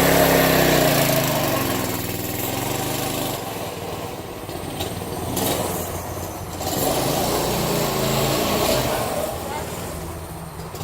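Small mini-bike engine running on propane, its revs rising and falling: it runs high at first, drops back about three and a half seconds in, and picks up again near the seven-second mark.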